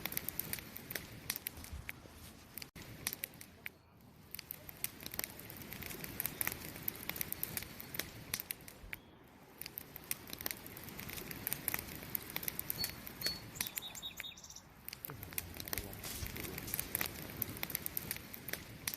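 Wood fire crackling, with many sharp pops and snaps over a steady hiss of burning.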